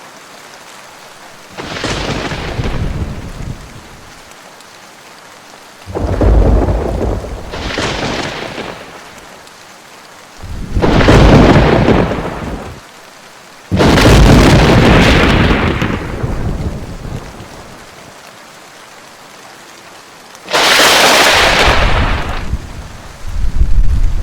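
Simulated thunderstorm audio: steady rain with a series of thunderclaps, each breaking suddenly and rumbling away over two or three seconds. The thunder is synthesized by an approximate acoustic model from a recorded thunder sample, driven by the lightning simulation.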